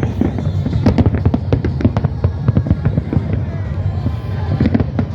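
Fireworks bursting and crackling in rapid, irregular succession, many sharp reports a second over a dense low rumble.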